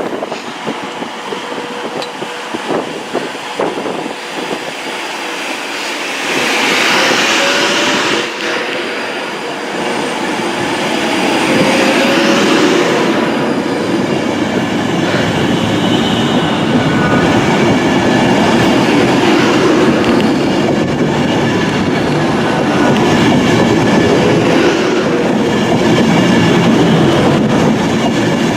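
A train running along the rails past a station platform, wheels clattering over the track, with two brief high squeals in the first half before a steady heavy rumble takes over.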